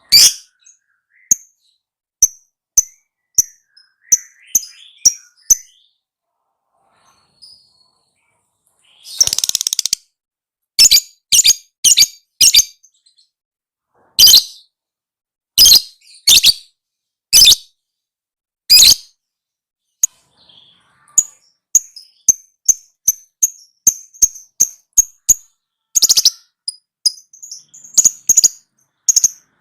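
Lovebird calling: short, sharp, high-pitched chirps in quick clusters with pauses between, and one longer harsh screech about nine seconds in.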